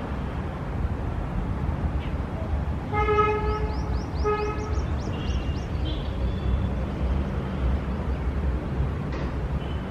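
Steady rumble of city traffic with a vehicle horn honking twice, about three seconds in, a long toot and a shorter one. Birds chirp briefly over the horn and just after it.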